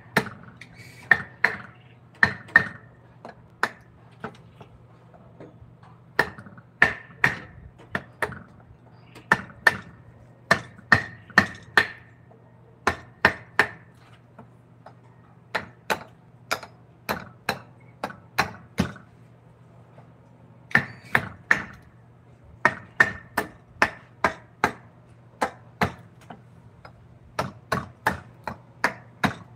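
Wood-carving mallet striking a chisel into wood: sharp knocks in irregular runs of a few strokes, about two a second, with a steady low hum underneath.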